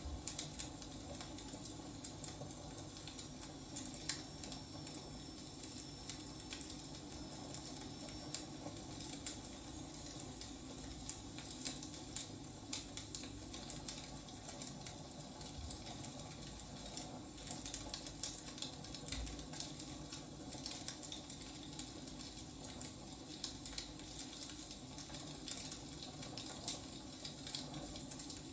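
Wood fire burning with a steady low rush and irregular sharp crackles and pops from the burning logs. A faint high whistle drifts in pitch for a few seconds early in the stretch.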